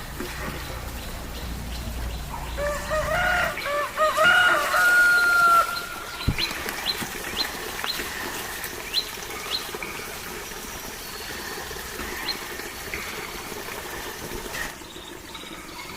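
A rooster crows once, a few seconds in: a run of rising-and-falling notes ending on a long held note. Scattered short high chirps follow.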